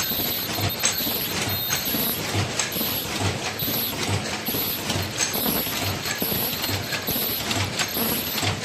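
Automatic face mask making machine running in a steady cycle: a low thump about every three quarters of a second, with clicking and a high hiss pulsing in step.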